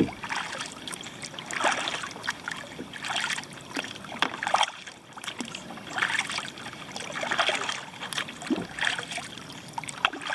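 Kayak paddle strokes: water swishing and dripping off the paddle blades in a steady rhythm, about one stroke every second and a half.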